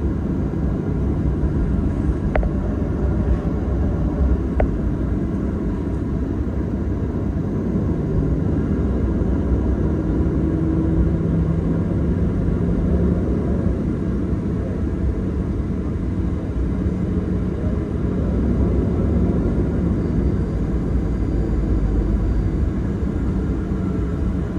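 Cabin noise of a Boeing 737 taxiing after landing: a steady low rumble of engines and airframe. Two faint clicks come a few seconds in.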